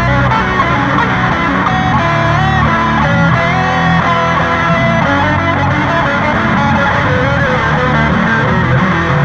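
Instrumental guitar music: an electric guitar playing a melody with bent notes over strummed guitar and bass.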